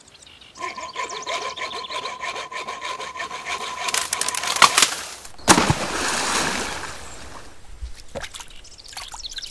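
Wood creaking and rubbing for about four seconds, then a sharp crack. A loud hit follows with a splash-like rush of water noise that fades over a second and a half, and a few clicks come near the end.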